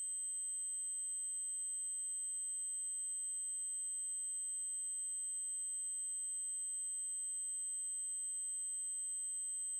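Synthesized 8192 Hz triangle-wave tone holding one steady, very high pitch without a break.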